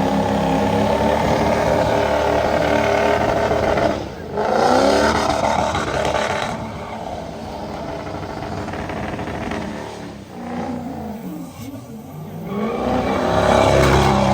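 Truck engine revving hard, its pitch dropping and climbing several times.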